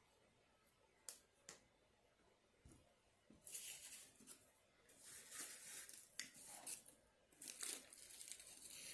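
Paper crinkling and rustling in three bursts, after two light clicks.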